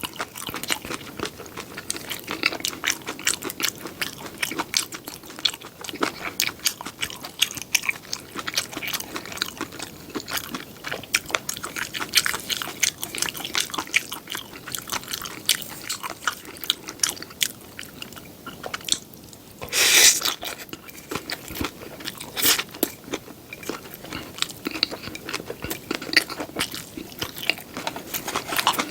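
A person biting and chewing seafood pajeon close to the microphone, with crisp, crunchy bites and wet chewing clicks coming irregularly. About two-thirds of the way through there is one longer, louder burst of noise.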